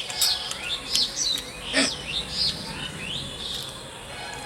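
Birds chirping repeatedly in short, curved calls, with one short sharp sound just under two seconds in.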